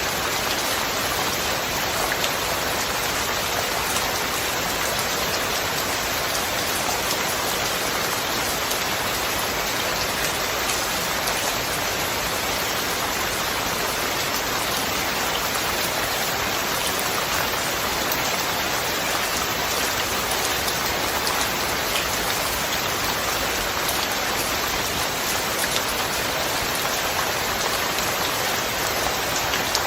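Steady rainfall, an even hiss of falling rain with faint scattered drop ticks, unchanging throughout.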